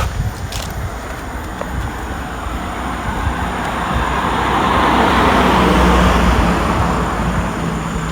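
A car driving past: its tyre and engine noise swells to a peak about five to six seconds in, then fades away.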